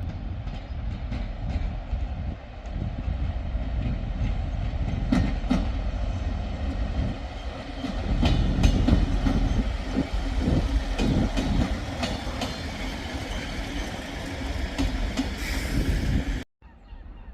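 Train running on the rails, a steady rumble with the wheels clicking over rail joints. It cuts off suddenly near the end.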